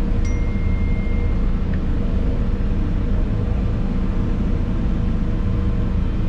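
An excavator's diesel engine running steadily, heard from inside the cab as a constant low drone. A thin high whine sounds briefly shortly after the start.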